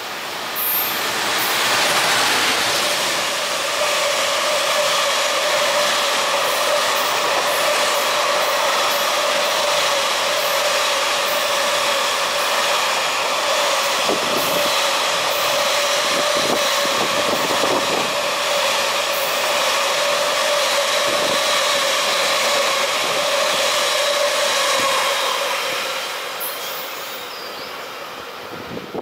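JR Freight EF210 electric locomotive and a long train of container wagons running through a station without stopping: the loud, steady rolling noise of the wagons on the rails, with a steady tone throughout and a few low knocks in the middle, fading as the end of the train moves away near the end.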